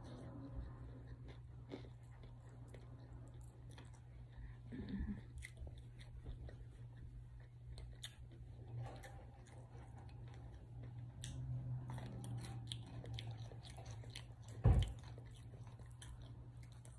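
A person chewing and biting chicken wings, with scattered small clicks over a steady low hum. There is one louder thump about three-quarters of the way through.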